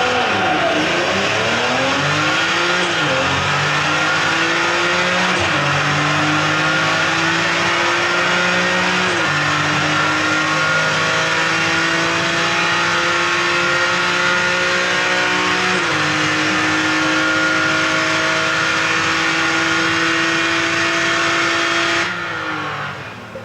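Twin-turbo Lamborghini Gallardo Superleggera V10 accelerating hard at full throttle through its gears on a 1 km drag run. The engine note climbs in pitch and falls at each upshift, with each gear lasting longer than the one before. The sound drops off sharply about 22 seconds in, near the end.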